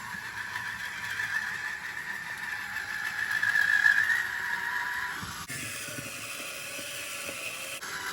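Electric wine opener's small motor whirring steadily as it works the corkscrew into a bottle's cork. The sound changes abruptly about five and a half seconds in and runs on steadily.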